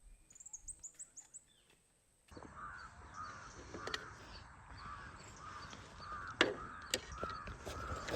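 Birds calling: a few quick, very high chirps, then after a cut a call repeated over and over at an even pace, with a few sharp clicks mixed in.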